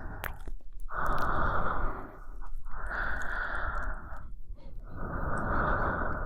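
A woman breathing slowly and audibly into a close microphone for ASMR. There are three long breaths of about a second and a half each, with brief pauses and a few faint clicks between them.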